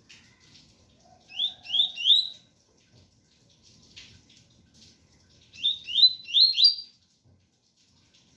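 Double-collared seedeater (coleiro) singing its 'tui tui' song: two short phrases of quick rising whistled notes, three notes and then, about four seconds later, four, over a faint background of rain.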